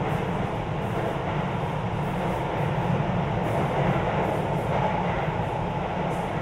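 Sotetsu 20000 series electric train running steadily between stations, heard from inside the passenger cabin: a constant rumble of wheels on rail with faint clicking.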